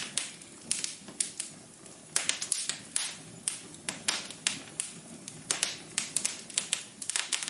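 Wood fire in a fireplace crackling, with irregular sharp pops and snaps, several a second, over a low steady rush.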